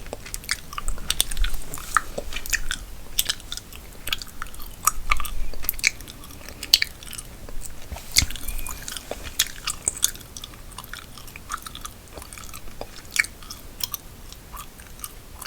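Gum chewing close to the microphone: irregular wet clicks and smacks, several a second.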